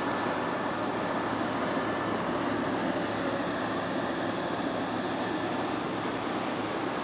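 Motorboat under way: a steady engine hum mixed with the rushing of water against the hull.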